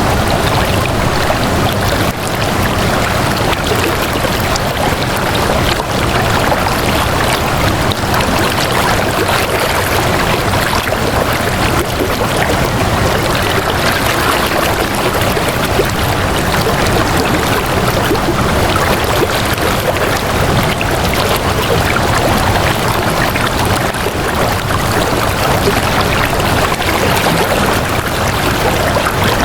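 Water flowing and splashing steadily, an even rushing noise that keeps up without a break.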